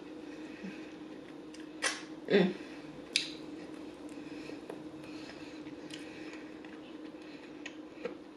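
Close-miked eating sounds: a few short wet smacks and clicks from the mouth while chewing fried chicken wing meat, clustered about two to three seconds in, over a steady low hum.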